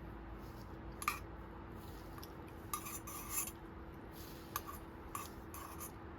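Metal utensils scraping and clinking against cookware: a sharp clink about a second in, a rasping scrape around the middle, then a few lighter clicks.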